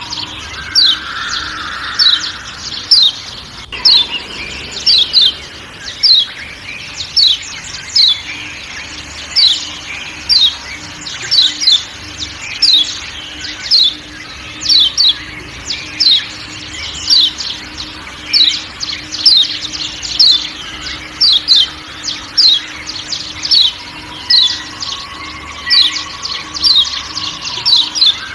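Kecial kuning (Lombok white-eye) giving sharp, repeated 'ciak ciak' calls, short downward-sweeping notes roughly one or two a second, over a forest background.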